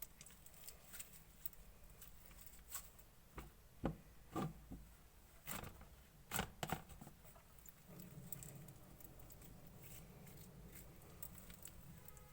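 Clear slime being mixed and squished by hand, giving irregular sticky clicks and pops, loudest in a cluster about four to seven seconds in.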